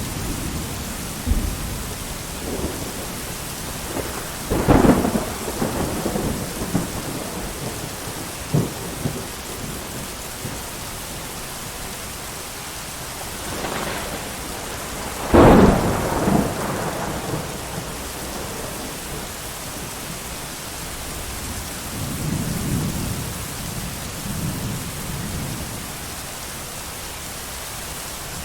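Steady heavy rain with thunder: two loud cracks of thunder about five and fifteen seconds in, each rolling off briefly, and softer low rumbles later on.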